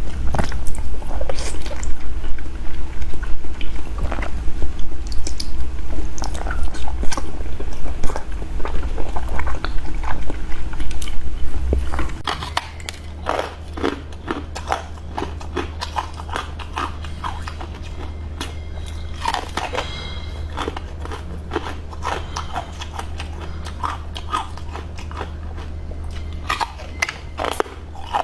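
Close-miked eating: repeated bites and chewing with crisp crunching and crackling, typical of frozen sweets or fruit. Louder and denser for the first twelve seconds or so, then softer.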